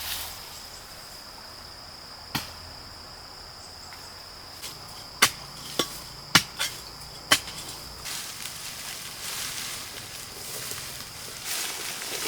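An insect's steady high-pitched buzz for the first eight seconds or so, with six sharp knocks scattered between about two and seven seconds in. A soft rustling noise takes over afterwards.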